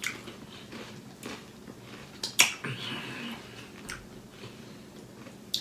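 Eating noises: a few sharp, isolated clicks and smacks, the loudest about two and a half seconds in.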